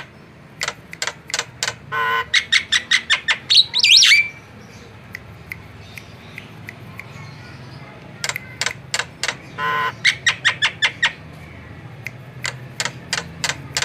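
Javan myna calling: a series of sharp clicking notes breaking into a rapid chatter with a harsh rasping call, and a quick rising whistle about four seconds in. A second bout of chatter and rasp comes around ten seconds in, with more scattered clicks near the end.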